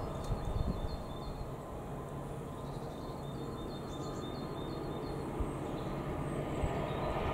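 Low, steady rumble of a diesel freight train, with a bird repeating short high chirps about four times a second in two runs, the second starting about three seconds in.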